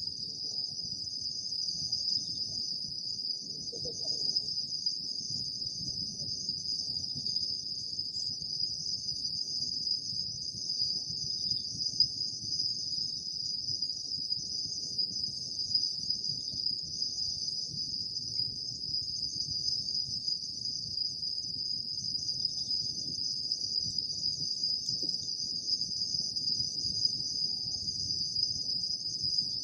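Chorus of crickets chirping on an autumn night: a steady, continuous high-pitched trilling with no breaks, over a faint low rumble.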